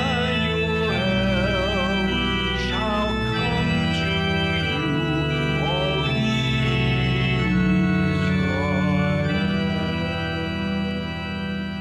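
Church organ playing sustained chords over a steady bass, beginning to die away near the end.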